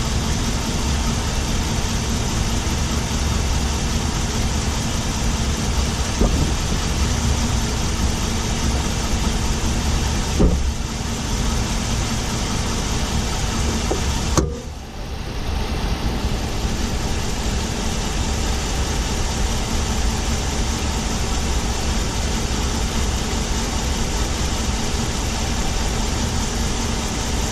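2017 Ram 1500's 5.7-litre Hemi V8 running while the truck is driven, heard from inside the engine compartment on the driver's side, with a ticking that the owner suspects may be the typical Hemi tick or something else. Sharp knocks come about 6, 10 and 14 seconds in, the last followed by a brief dip in level.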